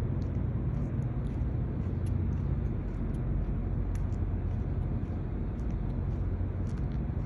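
Steady low engine rumble of a semi truck, even throughout with no change in pitch.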